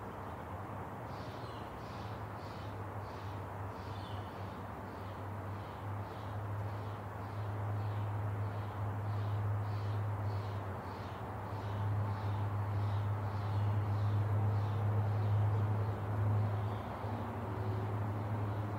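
Outdoor ambience: a bird repeats a short high call about twice a second over a low steady hum, which grows louder through the middle and eases off near the end.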